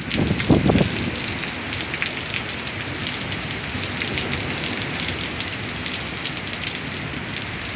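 Rain falling steadily in a thunderstorm, a dense patter of drops, with a brief low rumble about half a second in.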